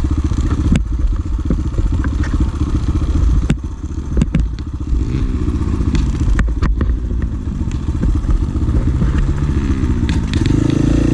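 Pit bike's single-cylinder engine running and revving, its pitch rising and falling over the middle and later part, with several sharp knocks.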